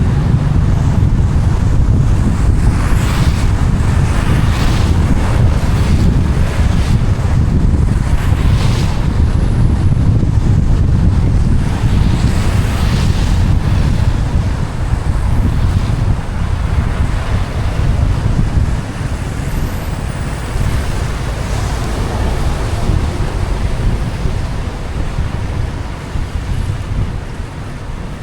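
Car driving on a rain-wet road: a steady low rumble of road and wind noise, with wind buffeting the microphone. A few louder swishes come and go, and the noise eases off near the end.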